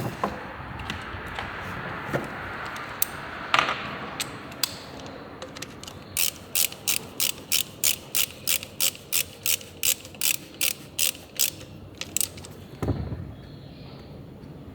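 Ratchet wrench clicking in a steady run of about three clicks a second for several seconds, after scattered knocks and clinks of tools being handled.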